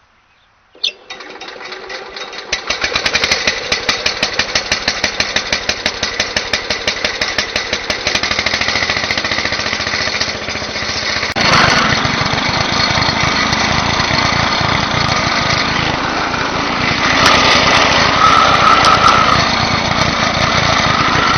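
Speedex S24 garden tractor's small gasoline engine starting up about a second in and running with an even, pulsing beat, then throttled up about eleven seconds in to a louder, steadier run.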